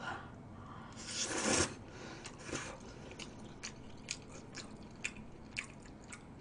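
A person eating stir-fried ramen noodles: a short slurp about a second in as a mouthful goes in, then chewing with many small wet smacks.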